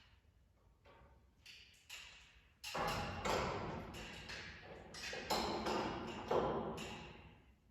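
Irregular knocks and clanks, quiet for the first couple of seconds and then louder and closer together, some with a short ringing tail.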